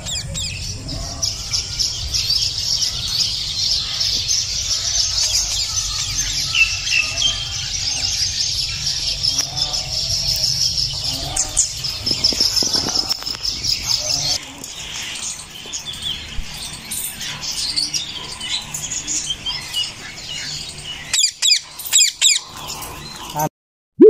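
Birds chirping and chattering in a dense high-pitched chorus, thinning to scattered chirps about halfway through. A few sharp knocks come near the end before the sound cuts off.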